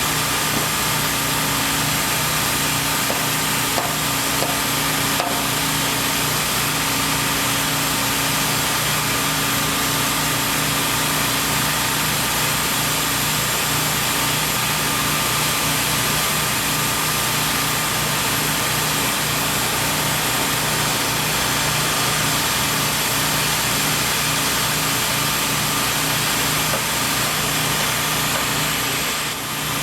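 Construction machinery engine running steadily, a constant hum with a few fixed tones over a broad noise, with no change in speed.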